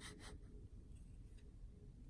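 A scraper rubbing across soft furniture filler on a wooden desk in quick repeated strokes, which stop a fraction of a second in; then near silence.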